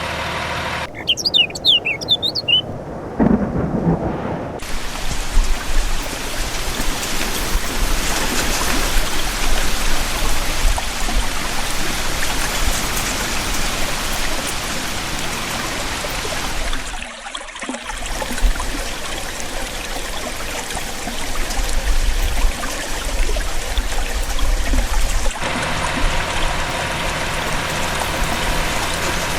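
Steady heavy rain with low rumbles of thunder. A few short high chirps sound in the first seconds, and the rain briefly drops away about two-thirds of the way through.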